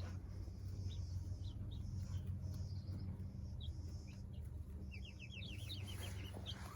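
Young chickens peeping and chirping in short, scattered calls, with a quick run of rising chirps near the end. A steady low hum lies underneath.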